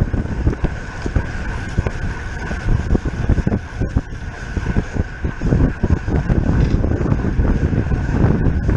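Wind buffeting the microphone of a bicycle rider at race speed, a steady rushing rumble, with a thin steady high whine underneath and a few light clicks.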